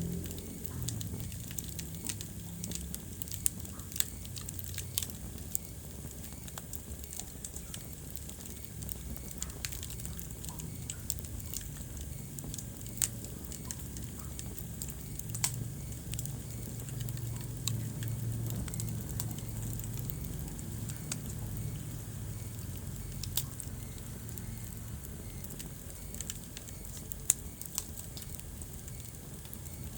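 Wood fire burning in a fireplace, crackling with irregular sharp pops, a few of them louder, over a low steady rumble.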